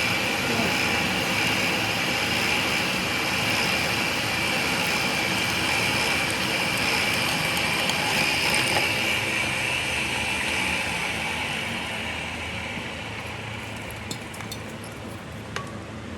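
A steady machine running noise with a hiss-like upper band, fading gradually over the last few seconds, with a few faint clicks near the end.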